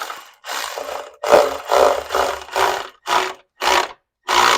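Power wrench ('gun') run in short bursts, about eight of them, each shorter than the last, as it drives engine bolts down until it stops turning them.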